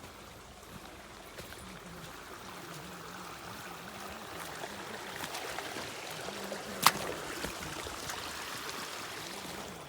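Creek water running and trickling, swollen by heavy rain, getting louder over the first several seconds. One sharp click about seven seconds in.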